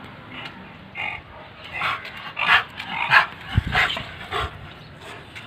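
British bulldog barking, a quick run of short barks from about a second in, loudest in the middle.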